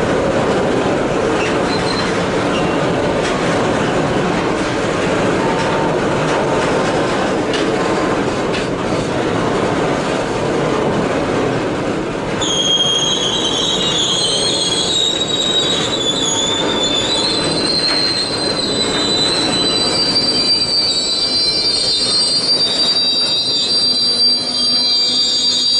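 Freight train of loaded steel-coil wagons rolling past with a steady rumble of wheels on rail. About halfway in, a high, wavering metallic squeal from the wagon wheels starts and keeps on while the rumble fades.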